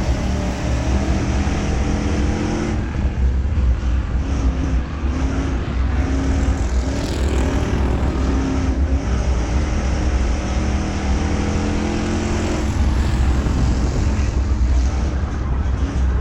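Race car engine running at racing speed, its pitch rising and falling with the throttle over a steady deep rumble.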